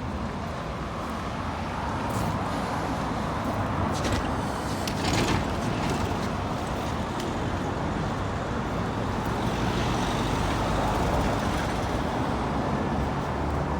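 Road traffic passing on a busy road: the steady rush of engines and tyres from cars and buses, briefly louder about five seconds in as a vehicle goes by.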